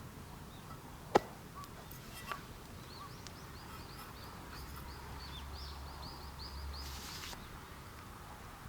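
A bird calling in a quick run of short, high, falling chirps, over steady outdoor background noise. A single sharp click about a second in is the loudest sound, with a smaller one a second later.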